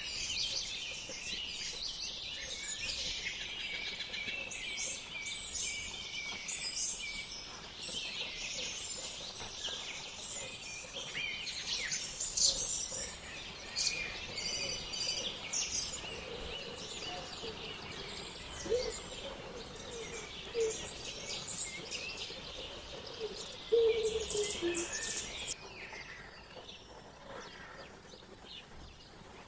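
Several wild birds singing and chirping at once, a dense chorus of short high chirps and trills, with a few lower calls among them. About 25 seconds in the chorus suddenly drops to a fainter level.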